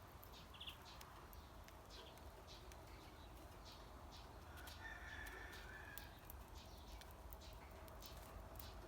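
Faint bird calls: scattered short chirps throughout, with a longer call about five seconds in, over a low steady background hum.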